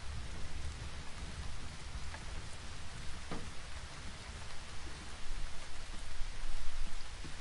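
Steady rain falling, with a few separate drops striking close by. A low rumble of distant thunder swells louder in the last couple of seconds.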